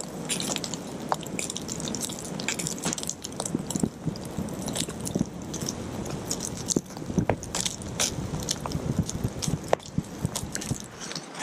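Campfire crackling over a bed of hot coals, with many irregular sharp pops and snaps over a steady hiss.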